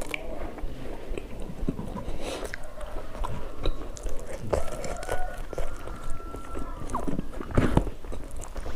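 Close-miked chewing and biting of food, with irregular wet smacks and crunches.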